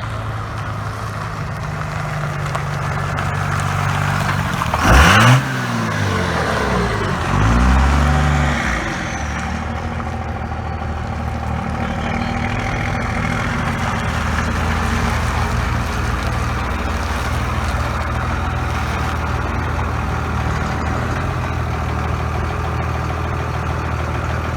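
A car engine idling steadily, revved sharply twice, about five seconds in and again around eight seconds, each rev climbing in pitch before it settles back to idle.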